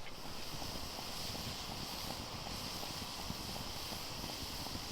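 Small campfire burning, a soft steady hiss with faint scattered crackles.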